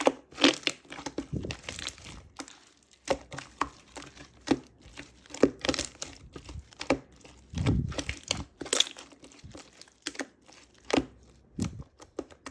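Clear slime being squished and pulled by hand, making irregular sticky pops, clicks and crackles.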